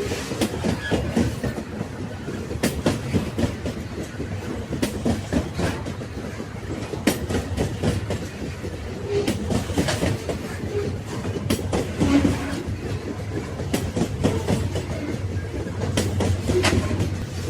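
Railway wagons rolling on the tracks: a continuous low rumble broken by frequent sharp clacks of the wheels over the rails.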